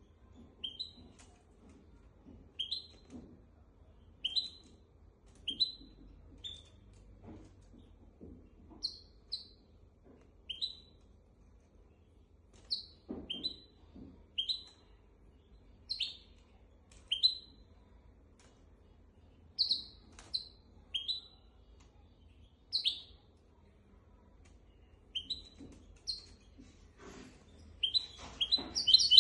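Hybrid finch calling with single short rising chirps, about one every second or so, then breaking into a rapid trilling song near the end.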